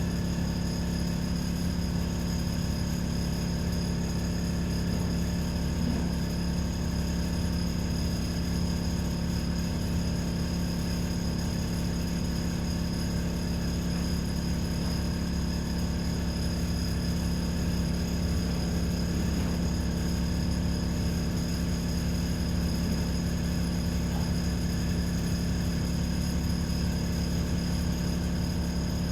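ADL Enviro 400 double-decker bus running, heard from inside the passenger cabin: a steady low engine drone with a few faint high-pitched whines, holding one even pitch and level throughout.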